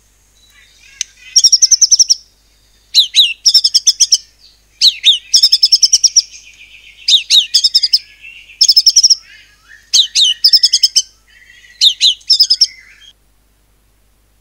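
White-rumped shama (murai batu) singing loud, high phrases, each a rapid run of about half a second of fast repeated notes with falling whistled sweeps before it. This is the 'nembak' (shooting) delivery, with imitations keepers call cungkok and cililin. The song cuts off suddenly about a second before the end.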